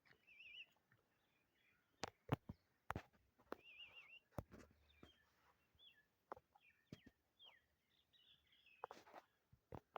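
Faint, high warbling chirps and squeaks from an animal, broken by several sharp clicks and knocks.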